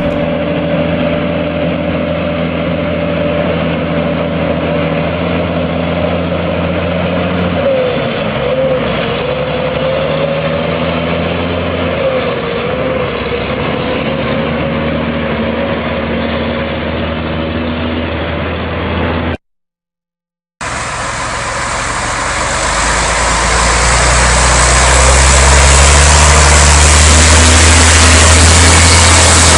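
Heavy truck engines running steadily in two separate stretches, split by about a second of silence; in the second stretch the engine grows louder a few seconds after it starts.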